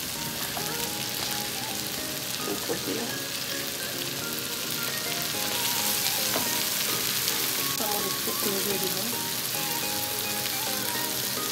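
Chopped carrot, capsicum and cauliflower sizzling steadily in hot butter and oil in a nonstick pan over high heat, stirred with a wooden spatula.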